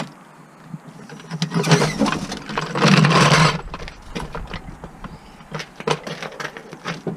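Audi A1 1.6-litre diesel engine cranking and catching, loud for about two seconds, then settling to a lower steady idle with a few light clicks.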